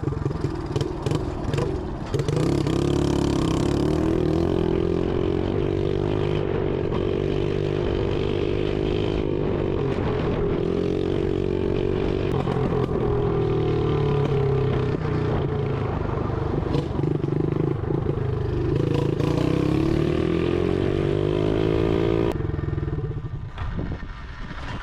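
SSR 125 dirt bike's single-cylinder four-stroke engine running very loud with the muffler disconnected from the exhaust pipe, revving up and down over and over. Near the end the engine note drops away abruptly.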